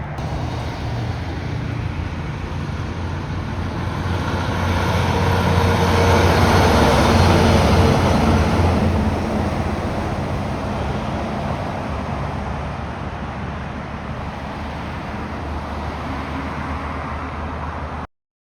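A heavy truck driving past on the road. Its low diesel drone and tyre noise swell to a peak about halfway through and then fade away. The sound cuts off suddenly near the end.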